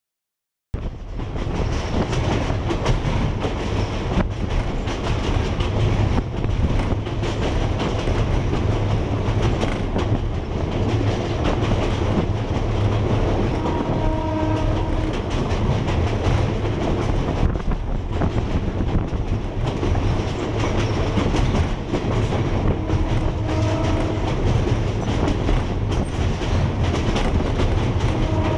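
Train running along the Ban Laem–Mae Klong line, heard from inside the carriage at an open window: a steady rumble and clatter of the wheels over old, poorly maintained track. The horn sounds briefly about halfway through, again around three-quarters through, and once more at the end.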